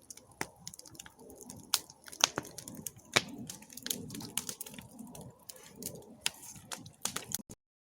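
Wood campfire crackling, with irregular sharp pops and snaps over a low, uneven rumble of flames. The sound cuts off abruptly near the end.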